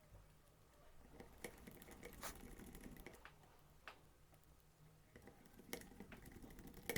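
Faint, scattered clicks and light taps of small screws and plastic parts being handled and fitted while an RC car chassis is screwed back together.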